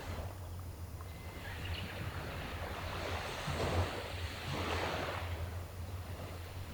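Sea waves washing ashore: one wave's wash builds, peaks and fades over a few seconds, over a steady low rumble.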